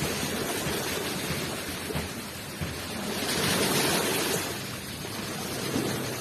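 Ocean waves washing onto the shore, a steady rushing hiss with a low rumble, one wave surging loudest about three to four seconds in before it draws back.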